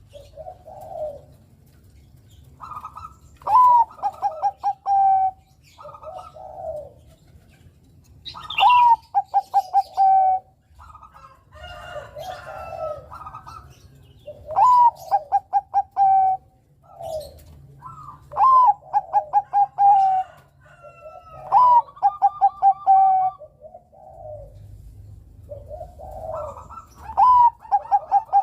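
Bangkok-bred zebra dove (perkutut) song: phrases every four to six seconds, each a quick run of staccato coos ending in a longer held note, with softer, lower coos between the phrases.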